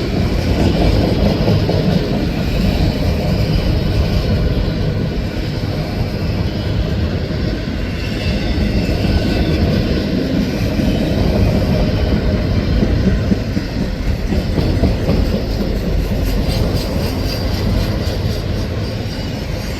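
Freight train of empty autorack cars rolling past on a curve: a steady, loud noise of steel wheels on rail that runs on without a break.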